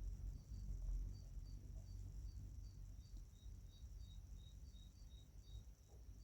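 Faint insect chirping, short high chirps repeating about three times a second over a steady high hum and low background rumble.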